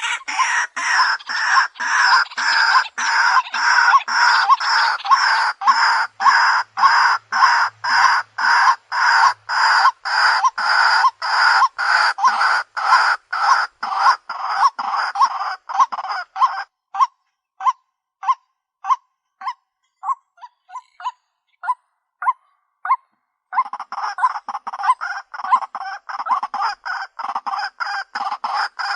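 White-breasted waterhen (Amaurornis phoenicurus) lure call: loud, monotonous repeated croaking notes, about two a second. The dense calling drops to thin, clipped single notes about two-thirds of the way through, then comes back in full a few seconds later.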